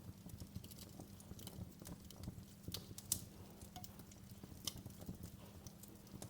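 Wood fire crackling in a fireplace: irregular sharp pops and snaps over a low, steady background, with one louder pop about three seconds in.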